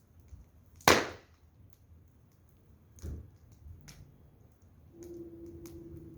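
Wood fire crackling: sharp pops from burning firewood, the loudest about a second in and another about three seconds in, with smaller ticks between. A faint steady hum comes in near the end.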